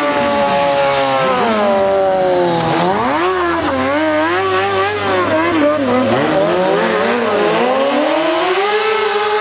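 Motorcycle engine revving, its pitch rising and falling repeatedly, with a deep dip about three seconds in.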